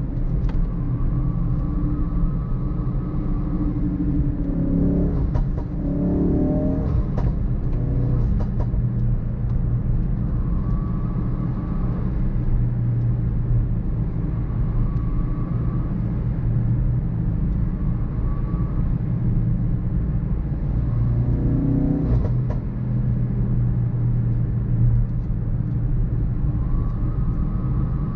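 Ford Focus RS Mk3's 2.3-litre turbocharged four-cylinder engine pulling hard on track, its pitch climbing again and again as it revs up through the gears, with tyre and road noise underneath.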